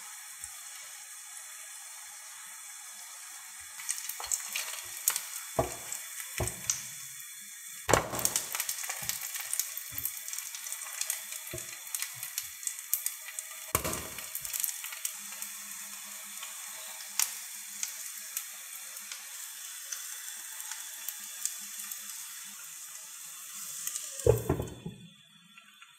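Potato-and-egg patties frying in shallow oil in a nonstick pan: steady sizzling with crackles and the knocks of a silicone spatula, the sizzle growing louder about eight seconds in. Near the end a glass lid clunks onto the pan and the sizzling is suddenly muffled.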